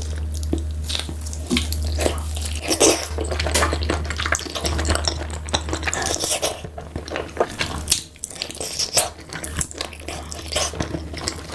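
Close-miked eating of cooked beef feet: biting and chewing with many short, irregular wet mouth clicks and smacks, over a steady low hum.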